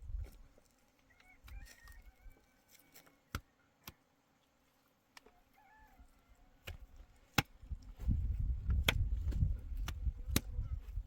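Sharp knocks, a few at first and then regular, about every second and a half, from about seven seconds in, like chopping or striking blows. A low rumble joins them about eight seconds in.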